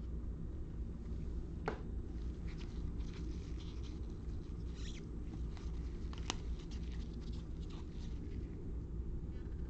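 Trading cards being handled and flipped through, soft rustles and small clicks with two sharper clicks, over a steady low hum.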